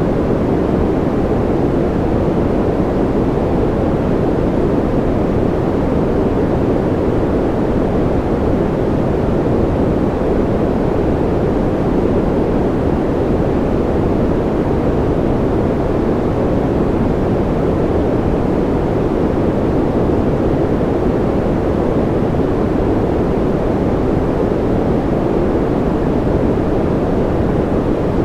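Steady generated sleep noise: an even, unbroken rush without any rhythm or tone, weighted toward the deep range with little high hiss.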